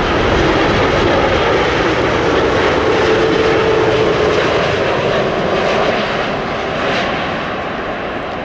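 Boeing 787 jet airliner passing close as it lands, its engines a loud steady rush with a whining tone, easing slightly in the last couple of seconds.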